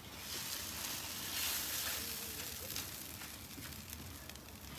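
Scrambled eggs sizzling faintly on a Pit Boss ceramic-coated griddle plate, with a few light ticks as a silicone spatula pushes them around.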